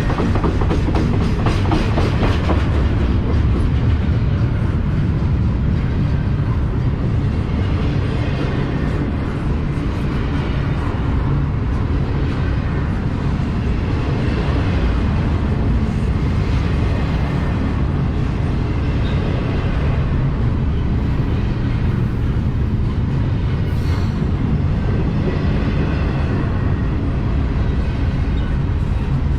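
CSX freight train rolling past, its wheels making a steady rumble on the rails, with quick clicks over rail joints in the first few seconds.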